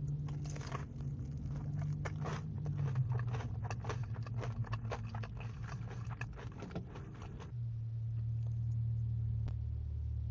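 Close-miked crunching and chewing of crisp food, with many sharp crunches for most of the first seven seconds. A steady low hum sits underneath and becomes louder and steadier once the crunching stops.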